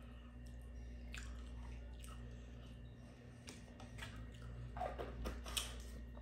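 A person chewing food close to the microphone, with faint scattered mouth clicks that grow a little louder near the end.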